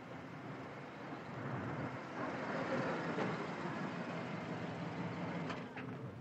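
Steady engine noise that grows louder about two seconds in as a police car drives up across a grass field, over the running of a light plane's propeller engine.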